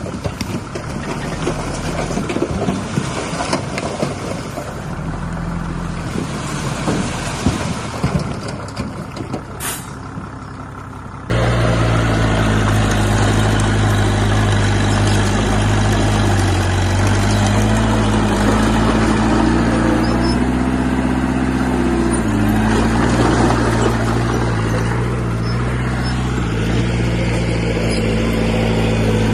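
Heavy diesel construction machinery working. For the first eleven seconds or so it is an irregular noise full of short knocks and clatter. Then it switches abruptly to a diesel engine running steadily, its pitch rising and falling a little.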